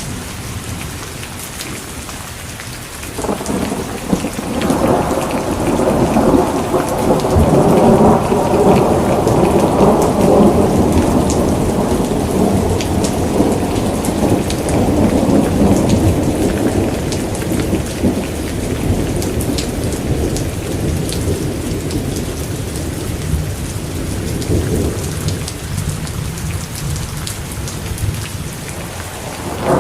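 Steady rain with a long roll of thunder that comes in about three seconds in, swells, and slowly dies away over some twenty seconds; another roll begins right at the end.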